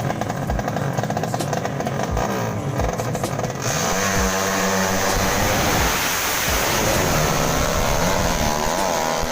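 Drag-racing motorcycle engines revving hard, with their pitch rising and falling as they accelerate. The engines become louder and fuller about four seconds in. A steady music beat thumps about twice a second underneath.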